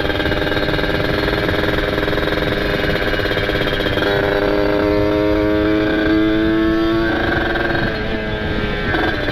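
Kawasaki Ninja RR 150 cc two-stroke single with a ported cylinder and an open exhaust, running on the road. Its note climbs slowly from about four seconds in and falls back about three seconds later.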